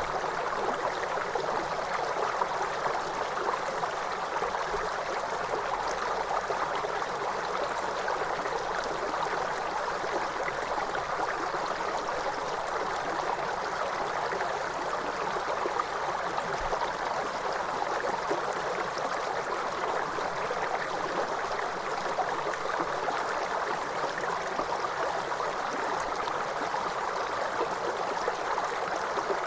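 Waterfall: a steady, even rush of falling water that does not change over the whole stretch.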